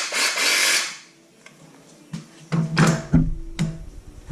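DeWalt DCS331B cordless jigsaw running, then stopping about a second in. Several knocks and clunks follow from about halfway through.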